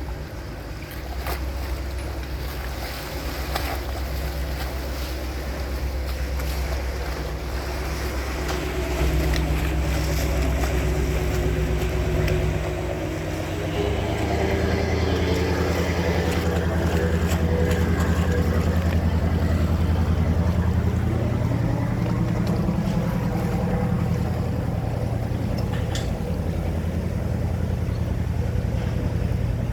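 Small ferry's engine running with a steady low drone, getting louder about a third of the way in and again about halfway as it pulls away, over the wash of the water.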